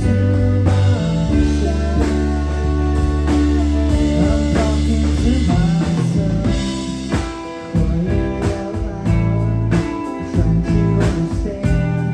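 Live rock band playing an instrumental stretch of a song: guitar over held bass notes and a drum kit, with the drum strokes coming through more plainly in the second half.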